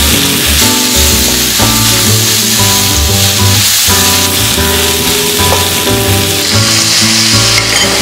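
Sliced onions and scrambled egg sizzling in a frying pan, under background music.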